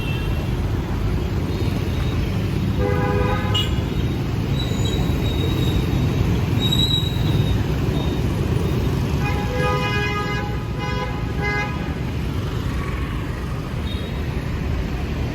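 City street traffic running steadily, with a vehicle horn honking briefly about three seconds in and a run of short honks around ten to eleven seconds in.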